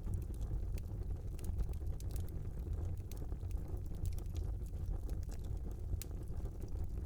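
Fire burning in a small fireplace: a steady low rumble of the flames with frequent small crackles and pops, one sharper pop about six seconds in.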